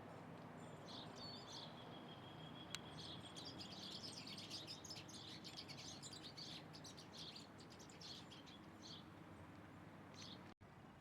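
Small birds chirping and twittering, faint and high-pitched: a thin steady whistle about a second in, a dense flurry of calls in the middle, then scattered chirps.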